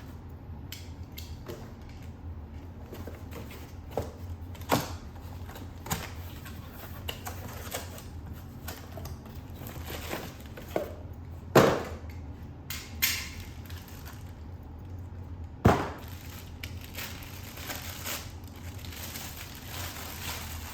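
Unpacking a coffee maker: scattered knocks and thumps of the machine, its parts and its packaging being handled, with brief rustling. The loudest thumps come a little past halfway and about three quarters of the way in.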